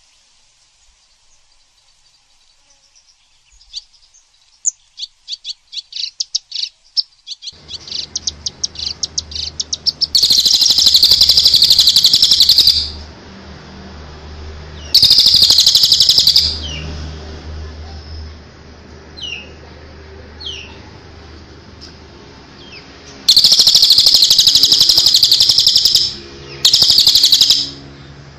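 Songbird singing, of the kind used as masteran song for murai: a stuttering run of short high notes that speeds up, then four loud, fast chattering phrases of one and a half to three seconds each, with single short notes between them. A low steady hum runs underneath from about seven seconds in.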